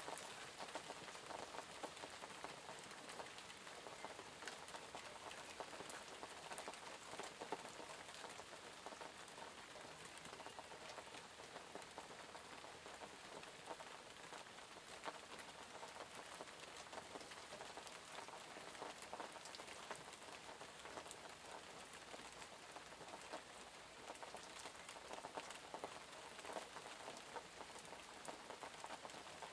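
Steady rain falling, an even patter of many small drops hitting surfaces.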